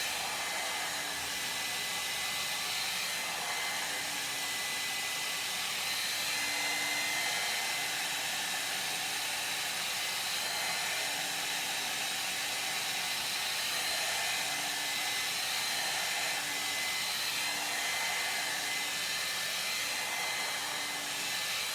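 Compact 1800-watt ionic hair dryer running steadily while drying a section of hair: a rush of air with a thin high whine, swelling a little as it is moved through the hair.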